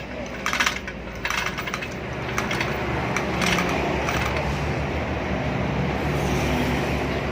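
Metallic clinks and taps of tools and parts, clustered in the first couple of seconds, over a steady low mechanical hum that grows a little louder about two seconds in and then holds.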